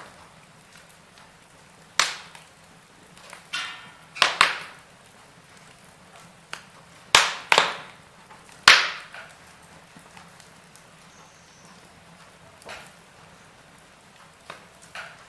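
Wood fire burning in a fireplace: irregular sharp crackles and pops, loudest and most frequent in the middle, over a faint steady background.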